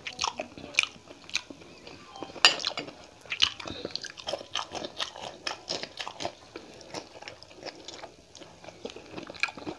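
Close-miked biting and chewing of okra pods: a quick, uneven run of crisp crunches, clicks and wet mouth sounds that grows busier a couple of seconds in.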